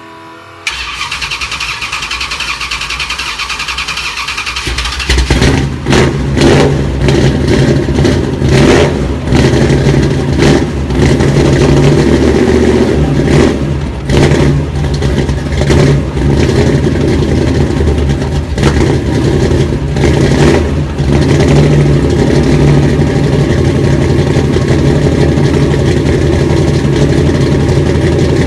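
Supercharged Hemi V8 cold start: the starter cranks for about four seconds, then the engine catches and runs loud and rough, blipped repeatedly, before settling into a steady idle near the end.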